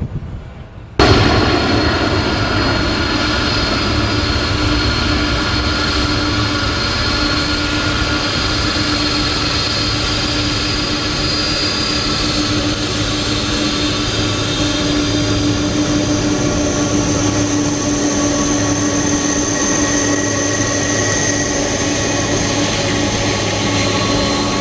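Jet airliner engines running with a steady whine over a loud rush of noise, starting abruptly about a second in.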